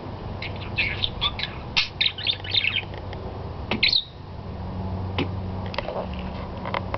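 Pet budgerigar chattering in a quick run of short, high chirps and squawks for about four seconds, then only a few scattered chirps over a steady low hum.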